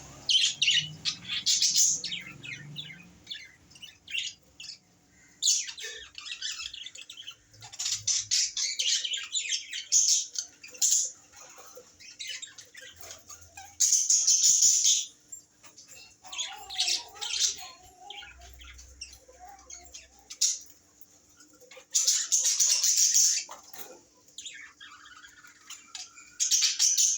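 Small pet parrots (love birds) chattering to each other in bursts of rapid high chirps and squawks, each a second or two long with short pauses between. A few bursts are louder and harsher.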